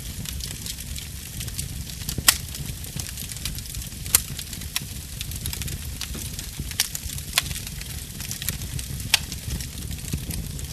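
Wood fire crackling in a fireplace: a steady low rumble and hiss of the flames, broken by sharp pops and snaps of burning logs, two of them loudest, about two and four seconds in.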